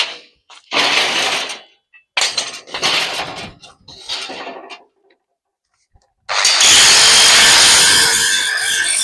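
Compressed-air spray gun spraying primer: three short bursts of hissing spray, then, after a short pause, a loud continuous spray from about six seconds in.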